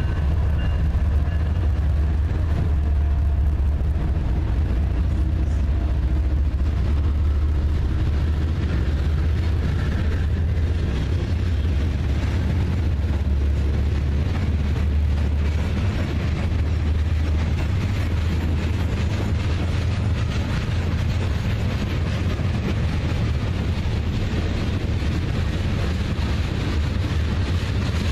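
Freight train rolling past: a steady low diesel rumble with rolling noise, no horn.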